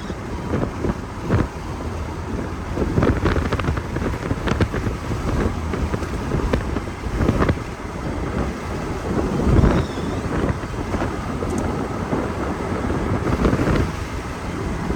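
Gusty wind blowing across the microphone: a steady low rush broken by repeated buffeting thumps as the gusts hit.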